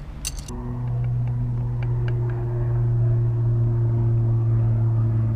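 A few clicks, then about half a second in an engine starts a steady low hum that holds at an even pitch and level.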